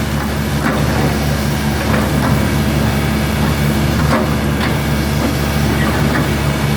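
Hitachi hydraulic excavator's diesel engine running steadily under working load, with a few short knocks and clanks from the machine as it digs.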